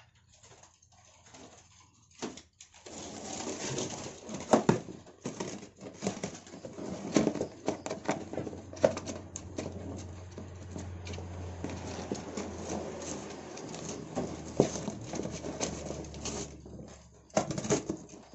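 Small caged birds fluttering and scrabbling in their container, with dense irregular knocks and rustling, after a quiet first few seconds.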